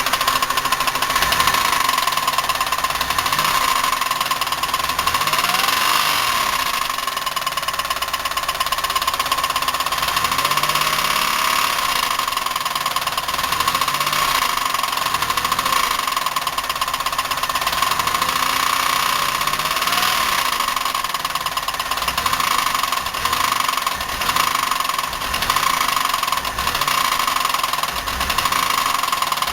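Buick 3800 V6 idling rough and shuddering, with a fast, steady knocking clatter. It is misfiring on at least one cylinder, and the knock is one the owner puts down to a bad bearing, a collapsed lifter or a rod knock.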